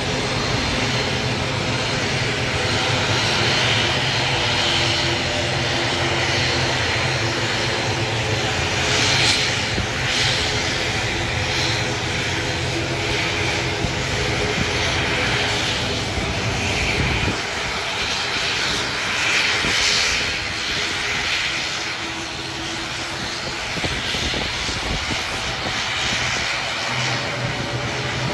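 Airplane engines running, a steady loud drone with a low hum and a hiss; the low hum weakens about seventeen seconds in.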